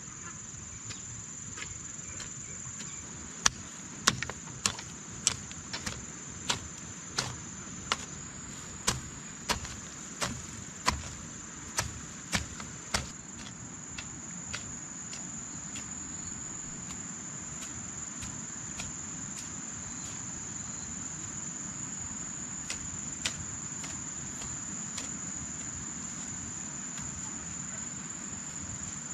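Steady high-pitched chirring of insects such as crickets, with a run of about fifteen sharp knocks, roughly one every half second, from a few seconds in to about halfway through. Two fainter knocks come later.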